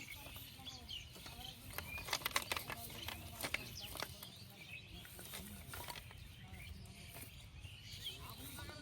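Birds chirping outdoors, with a quick cluster of sharp clicks about two to three and a half seconds in.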